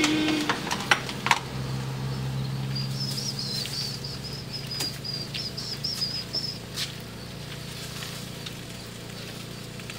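A small bird chirping a quick warbling phrase for a few seconds, over a steady low hum, with a few sharp clicks near the start.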